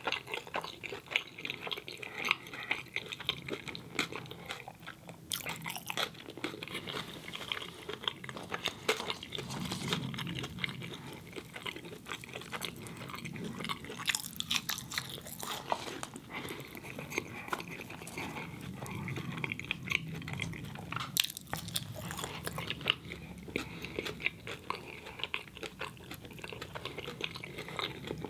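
A person chewing Cajun fries with ketchup, a steady run of chewing with many small clicks and smacks of the mouth.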